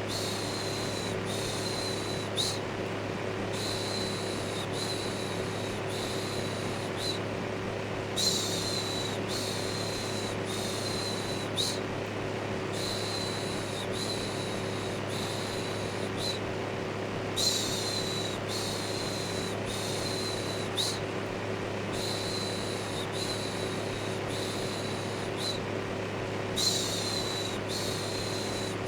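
Electric fan running steadily with a low hum, under a looped shushing "shhh" sound: sets of about four short shushes, each set repeating every four to five seconds.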